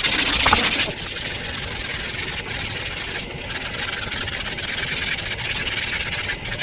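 Rough rubbing strokes, fast and dense for about the first second, then a softer, steadier rubbing.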